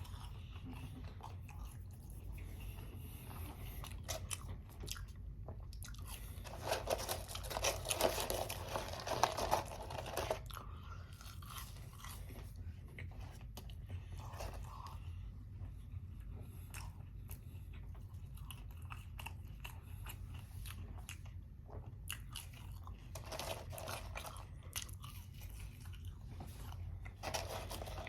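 A person chewing and biting Wendy's french fries close to the microphone, in scattered crunches with a louder stretch about seven to ten seconds in. A steady low hum runs underneath.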